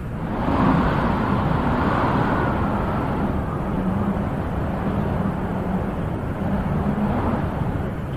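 Wind blowing in steady gusts with a deep low rumble, swelling into a stronger gust about half a second in and then rising and easing slowly.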